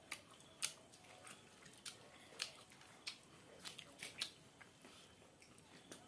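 Close-miked eating sounds of a person chewing food eaten by hand: faint, with sharp, irregular mouth smacks and crunches.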